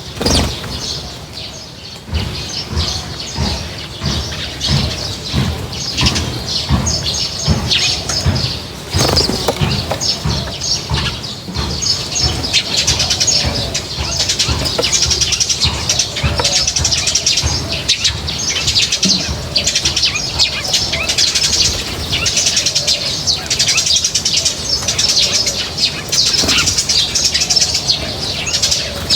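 A flock of small birds chirping constantly, with frequent wing flaps and fluttering. The chirping grows denser about halfway through.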